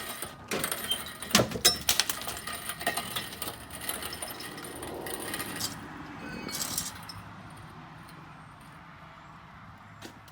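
Irregular metal clanks and rattles, thickest in the first seven seconds with the loudest knocks about a second and a half in, then dying away.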